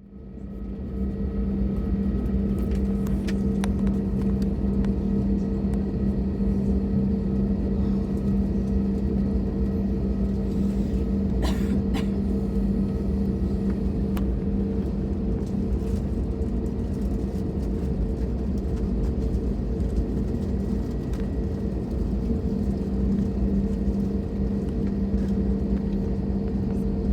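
Cabin sound of an Airbus A320neo with its engines at low power: a steady low rumble with a constant hum, fading in at the start, with a couple of clicks about halfway through.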